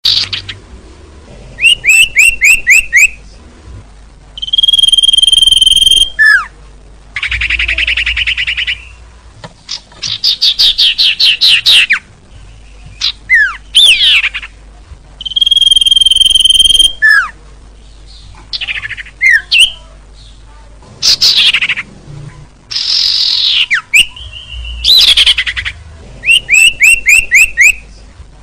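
Bird-lure recording of songbird calls: runs of quick falling chirps, a held clear whistle of a second or two, and buzzy trills, each phrase separated by a short pause. The sequence repeats as a loop.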